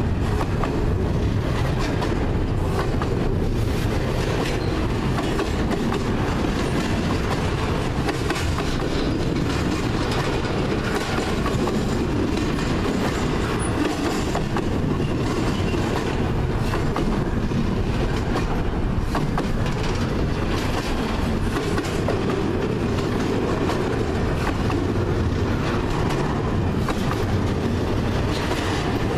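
Double-stack intermodal freight train rolling past close by: a steady, loud rumble of well-car wheels on the rails, with repeated clicks and clacks as the wheels pass over the track.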